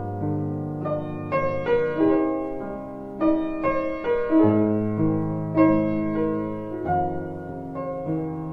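Background piano music: a slow melody over sustained bass notes, with new notes and chords struck every half second or so.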